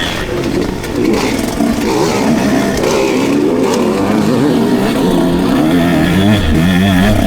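Two-stroke motocross bike engines on the track, revving up and down as the riders work the throttle, their pitch rising and falling over and over.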